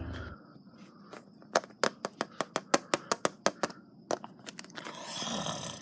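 A quick run of about a dozen sharp clicks or taps, roughly six a second, then a soft rushing noise near the end.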